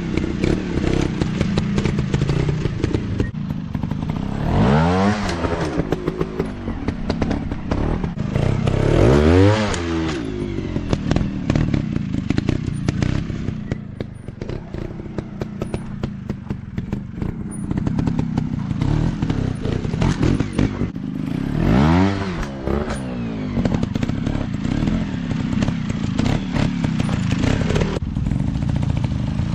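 Dirt bike engine running with four sharp revving bursts, each rising in pitch and falling back, about 4, 9 and 21 seconds in and again near the end. Clatter and knocks run through it.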